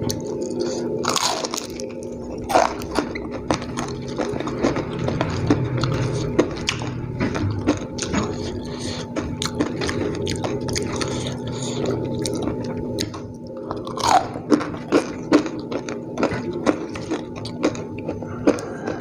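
Close-up mouth sounds of a person chewing a mouthful of ayam geprek (smashed fried chicken) and rice eaten by hand, with many sharp wet smacks and clicks, thickest a little after halfway. A steady hum runs underneath.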